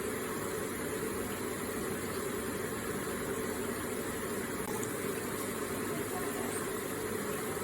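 Electric water feature running: water falling and splashing in a steady, even rush.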